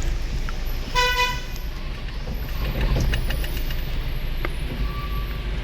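A vehicle horn gives one short toot about a second in, over the steady low rumble of a vehicle running on the road.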